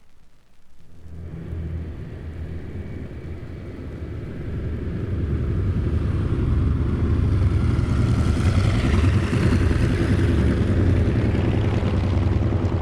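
Propeller aircraft taxiing, its engine running with a steady low rumble that starts about a second in and grows louder over several seconds, then holds.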